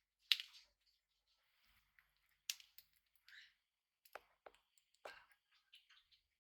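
Budgerigar making faint, scattered short clicks and taps, a few of them a little longer and scratchier.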